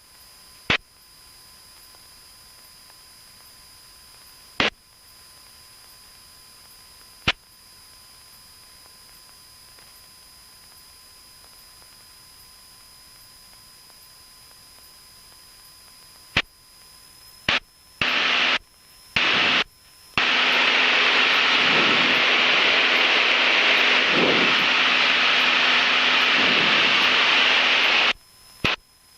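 Aircraft radio feed between transmissions: a faint steady hiss broken by a few sharp clicks as transmissions key on and off. After some short bursts, about eight seconds of loud static hiss from an open, keyed frequency carrying no voice, which cuts off suddenly with a click near the end.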